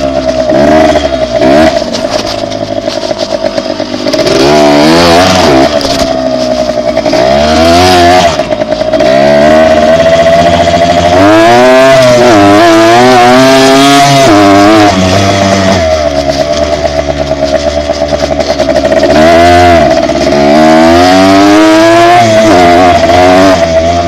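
Dirt bike engine running while riding, its revs repeatedly climbing and dropping back as the throttle is worked and gears change.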